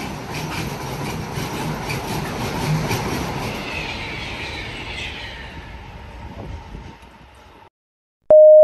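A train passing through a station, its wheels clicking regularly over the rail joints, with a falling whine in the middle as the noise fades away. The sound cuts off suddenly near the end, and a station PA chime tone sounds just before the end.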